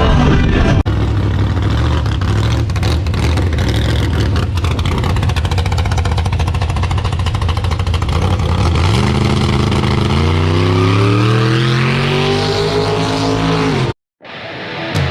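A hot rod's small-block V8 engine runs at high revs, then rises steadily in pitch for about five seconds as the car accelerates. The sound cuts off suddenly near the end.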